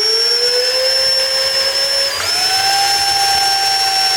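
Small electric drill with a 1/16-inch bit spinning while drilling out a rivet in a diecast metal model. It gives a steady whine that climbs slowly in pitch, then jumps sharply higher about two seconds in and holds there.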